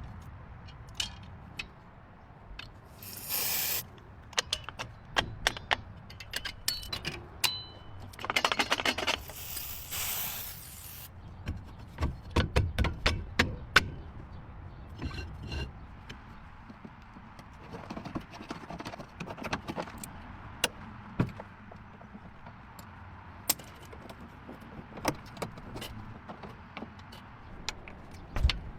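Workshop sounds of hand tools and metal parts knocking, clinking and scraping, with two bursts of hiss, a short one a few seconds in and a longer one around the middle.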